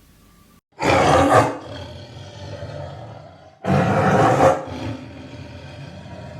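A large animal roaring: two loud calls about three seconds apart, each trailing off more quietly.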